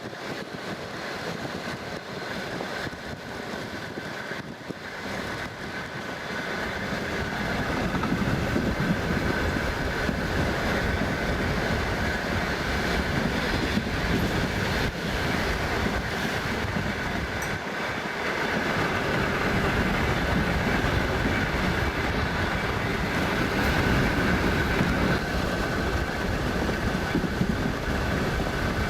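Passenger train running on the rails: continuous wheel and track noise with some clickety-clack and a steady high hum. It grows louder about seven seconds in, then holds steady.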